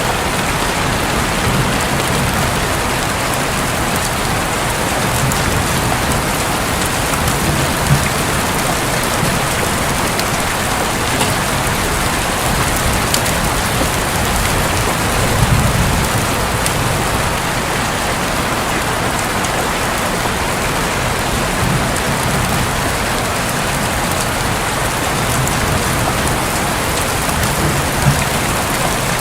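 Steady heavy rain falling on a roof, with scattered drop ticks. Soft low rumbles of distant thunder swell up every several seconds.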